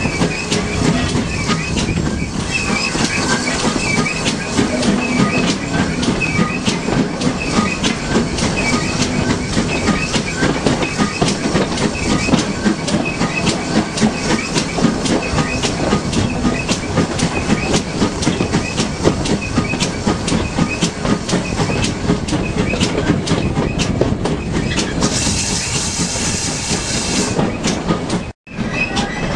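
Steam-hauled heritage passenger train running, heard from a carriage: wheels clattering over the rail joints under a continuous rumble. Near the end there is a burst of hiss for about two seconds, then the sound cuts out for a moment.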